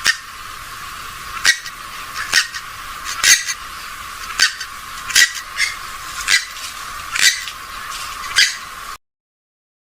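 Recorded calls of a rail-family waterbird (swamphen or moorhen), short sharp calls repeated about once or twice a second over a faint hiss, thin-sounding with the low end cut away. The recording cuts off suddenly about nine seconds in.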